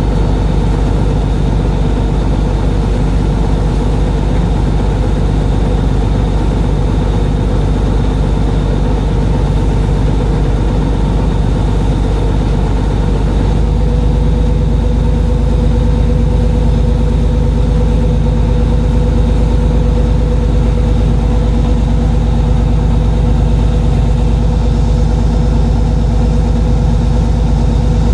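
Boat engine running steadily, loud and low-pitched. About halfway through, its note shifts and the low rumble grows a little louder, as with a change in engine speed.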